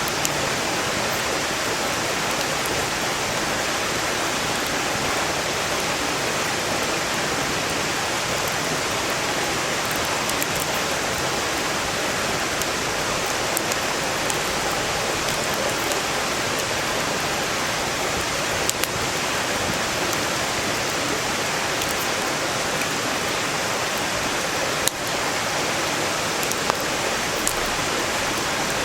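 Mountain stream rushing steadily, with a few sharp, scattered crackles from burning firewood.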